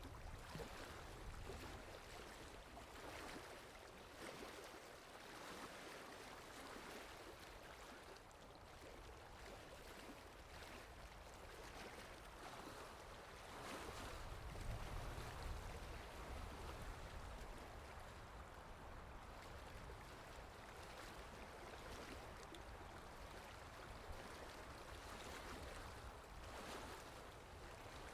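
Water lapping softly with wind, a faint steady wash. The low rumble and level swell for a couple of seconds about halfway through.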